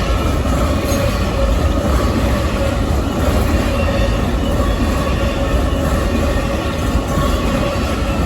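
Amtrak Auto Train's long string of cars rolling past at speed: a steady loud rumble of wheels on rail with a thin steady ringing tone over it.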